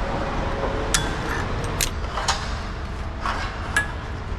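About five sharp metallic clinks and taps from tools and hardware being handled on a garage door's spring shaft assembly, over a steady low hum.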